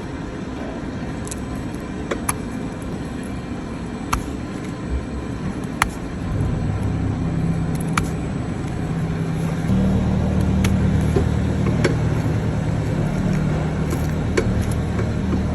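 A steady low machine drone that gets louder about six seconds in and again near ten seconds, with scattered sharp clicks and knocks over it.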